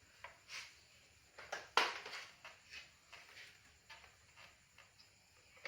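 Scattered light clicks and taps at an uneven pace, the loudest a little under two seconds in: small metal parts and tools being handled while a motorcycle's disc brake is put back together.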